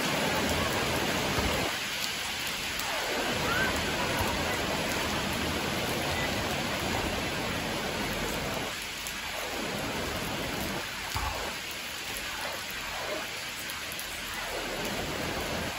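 Steady rain falling on a wet concrete court, an even hiss.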